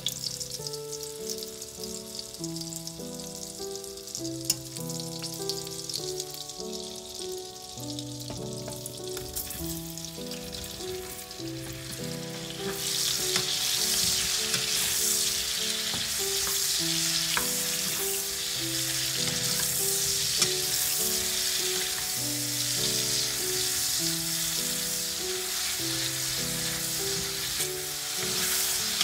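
Butter sizzling in hot olive oil in a non-stick wok; about thirteen seconds in the sizzle gets louder as champignon mushrooms fry and are stirred with a wooden spatula. Background music with a repeating melody plays along.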